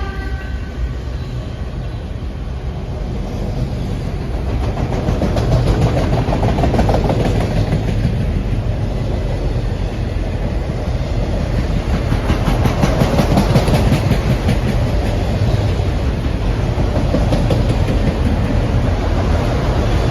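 Norfolk Southern freight train rolling past: a continuous low rumble of the cars, with the wheels clicking over the rail joints.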